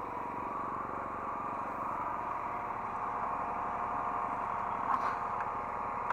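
Hydraulic excavator running steadily, its engine and hydraulics heard from the cab, with a whine of several steady tones and a short click about five seconds in.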